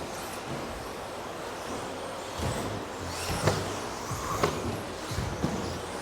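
Radio-controlled modified trucks racing round the track: a steady hiss of electric motors and tyres, with faint high whines and several short knocks through the middle.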